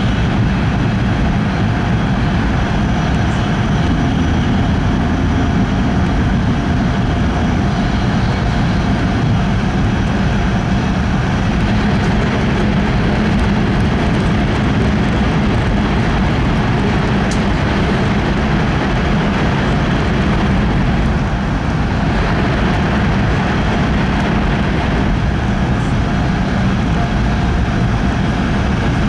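E5 series Shinkansen running, heard from inside the passenger cabin: a steady low rumble and rush of running noise with a faint even hum, unchanging throughout.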